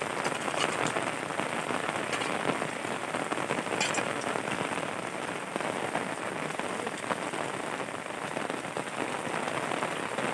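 Heavy rain falling steadily, with sharper drop strikes standing out now and then.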